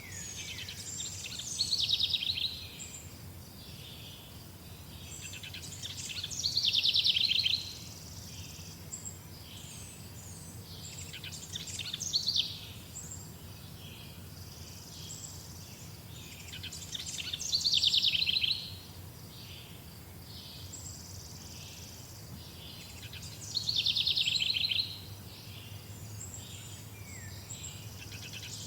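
A songbird repeating a short, fast trilled song about every five to six seconds, each phrase about a second long, with fainter chirps from other birds between phrases. A faint steady low hum runs underneath.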